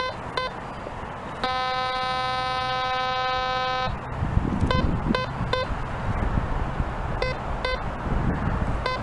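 A metal-detecting pinpointer beeping short chirps, then sounding one steady tone for about two and a half seconds as it sits on a buried coin, then chirping again. Rustling handling noise from the digging comes in about four seconds in.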